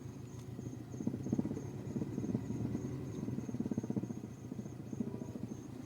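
Subaru Legacy GT's flat-four engine idling with a thumping noise, a rapid pulsing that grows louder and more uneven about a second in.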